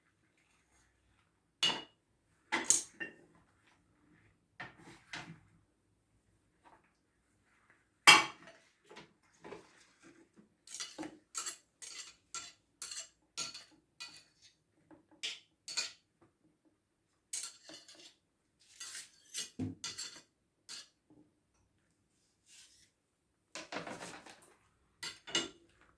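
Kitchen knife working on a pumpkin and against dishes while the skin is cut away: scattered sharp clicks and knocks, with a run of quick strokes about two a second through the middle.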